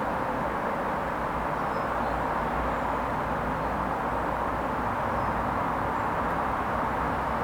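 Hoover Vision HVP16 washing machine running its Silks 30 hand-wash programme: a steady, even whooshing noise with a faint low hum.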